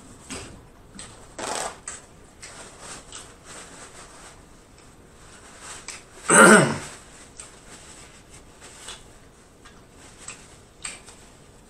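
Close-miked mouth sounds of eating: irregular wet chewing clicks and smacks, with one louder short vocal sound falling in pitch a little past halfway through.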